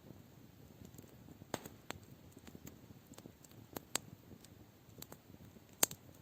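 Campfire crackling: burning wood giving scattered sharp pops and snaps at irregular intervals over a soft low hiss, the loudest pop near the end.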